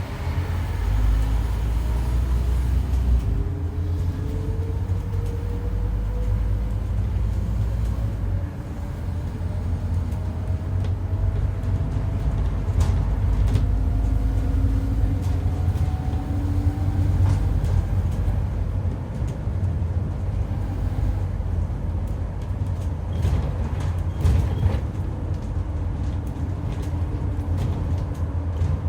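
Scania N230UD double-decker bus with a 9.3-litre engine and ZF five-speed automatic, running under way with a low engine rumble and a howling whine that climbs steadily in pitch for about the first half, then fades, with a few sharp clicks later. The uploader thinks the howl sounds like a dodgy bearing or worn-out tyres.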